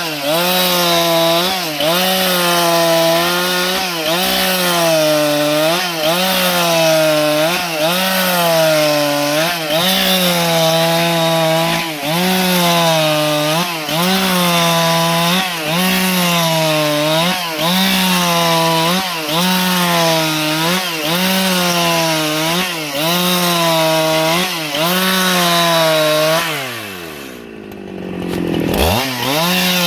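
Husqvarna 395XP two-stroke chainsaw cutting wood under load, its engine pitch dipping and recovering about once a second. Near the end the engine speed drops sharply, then revs back up.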